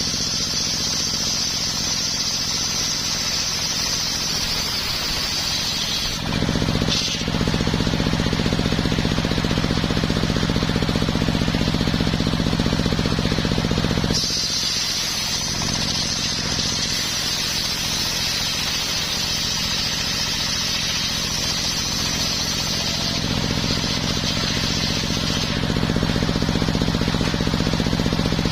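Homemade circular sawmill running steadily while its blade cuts coconut wood. A high hiss of the cut comes and goes: through the first six seconds, then again from about the middle until near the end, while the low machine drone carries on.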